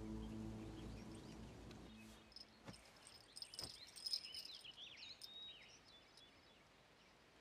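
Soft background music fades out over the first two seconds, then birds chirp briefly amid faint outdoor ambience.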